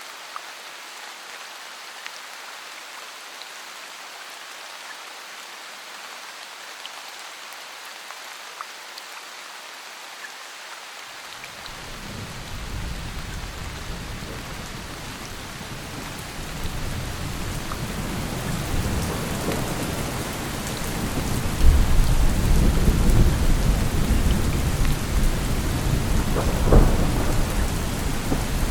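Steady rain hissing, with scattered drops ticking. About eleven seconds in, deep rolling thunder rises and keeps building, loudest in the second half, with a sharper clap near the end.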